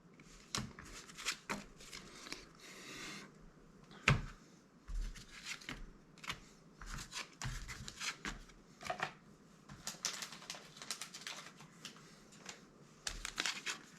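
Magic: The Gathering trading cards being handled and sorted: a scattered run of light clicks and taps as cards are laid down and picked up, with a brief sliding rustle about three seconds in.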